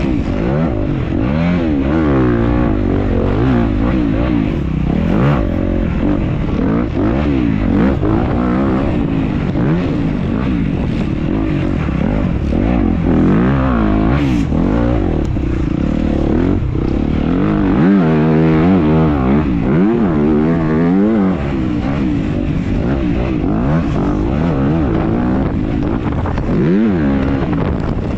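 Motocross dirt bike engine under race load. The revs climb and drop again and again, every second or so, as the throttle is worked and gears are changed.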